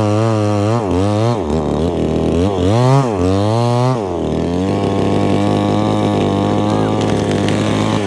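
Chainsaw engine revved up and down several times in quick succession, then held at a steady high speed for the last few seconds.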